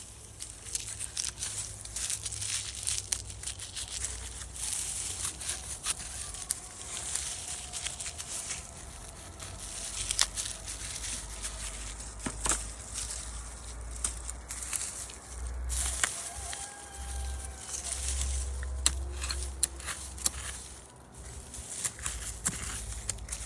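Rustling, crackling and tearing of dry onion tops and soil as onions are pulled and handled at harvest, with many scattered sharp snaps over a low steady rumble.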